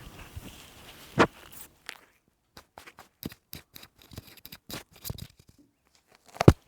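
A cat pressing its paws into its bed, making the bed creak and crackle: a run of small, irregular clicks, with a louder knock about a second in and the loudest near the end.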